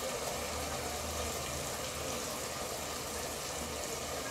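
Tomato and shallot masala frying in oil in an open pressure cooker, bubbling and sizzling steadily.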